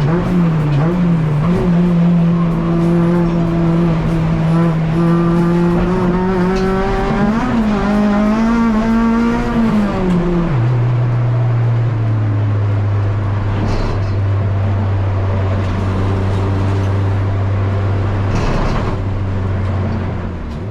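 Honda K24 2.4-litre four-cylinder engine of a race-prepared Civic EG running at a steady high engine speed, rising briefly and then dropping to a lower steady speed about halfway through, where it holds.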